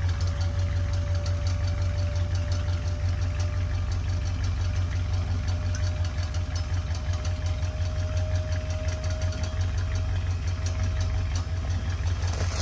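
Engine idling steadily, with a faint steady whine above the low engine hum.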